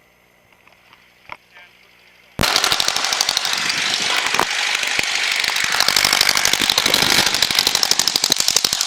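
A small piston airplane engine running, heard from inside the cabin as a loud, rapid pulsing drone. It comes in abruptly about two and a half seconds in, after a faint click.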